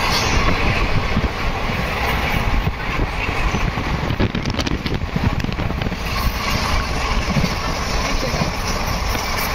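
Passenger express train running at speed: a steady, unbroken rumble and rush of noise with no pauses.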